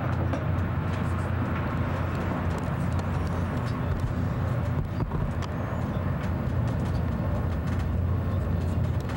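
ICE high-speed train running at speed, a steady low rumble of wheels on track heard on board, with a few faint clicks.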